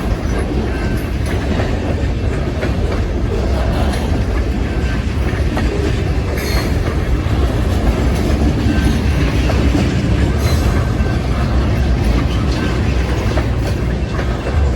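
Freight train rolling steadily past, its wheels clacking over the rail joints, with a few faint brief wheel squeals.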